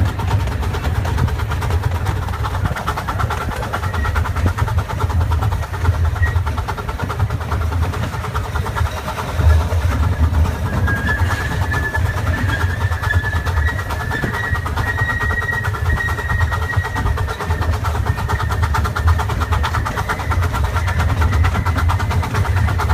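Miniature steam train running: a steady low rumble, with a thin high-pitched squeal near the middle that lasts about six seconds.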